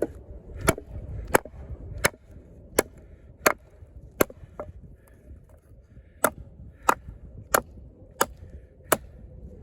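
Lengren Dragon combat knife, a large fixed blade, chopping into a pressure-treated log: about a dozen sharp strikes, roughly one every 0.7 seconds, with a pause of about a second and a half midway.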